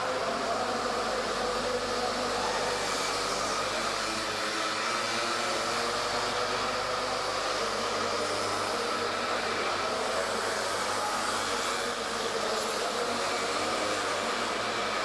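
Small two-stroke mini moto engine running with a steady, buzzing whine, its pitch shifting a little with the throttle.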